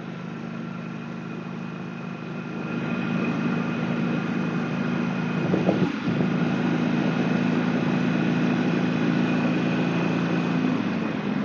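Motorcycle engine running on the road, heard from the rider's helmet with a steady rush of noise over it; it gets louder about three seconds in, dips briefly around the six-second mark, and its note changes near the end.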